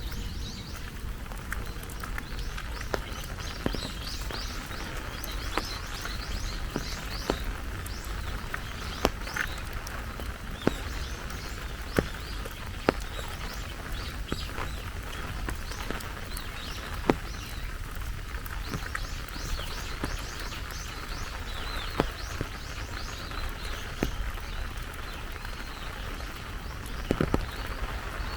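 Steady rain falling, with birds chirping and twittering. Sharp drip ticks land every second or two, with a quick cluster of them near the end.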